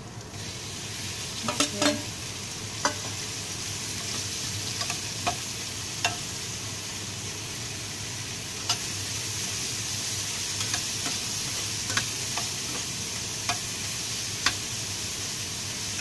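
Sliced button mushrooms going into a steel frying pan of hot oil and garlic and frying there with a steady sizzle that swells as they go in. A few sharp clicks about two seconds in, then single sharp clicks every second or two over the sizzle.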